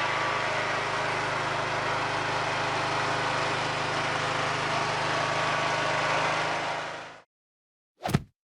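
Engine running steadily, fading out about seven seconds in, followed by a single sharp knock near the end.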